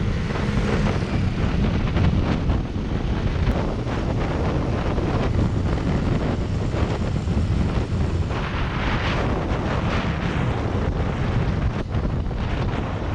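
Motorcycle engine running on the move, buried in heavy wind noise on the microphone, with gusts of louder rushing about nine seconds in and again near the end.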